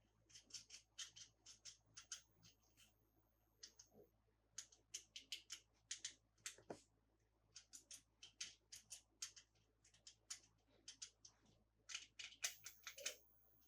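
Faint, quick crackles and clicks of plastic toy packaging being handled and cut open, in an irregular run.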